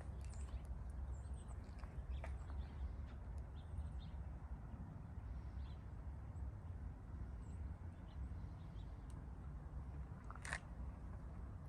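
Outdoor ambience: scattered faint bird chirps over a steady low rumble, with a sharp click about ten and a half seconds in.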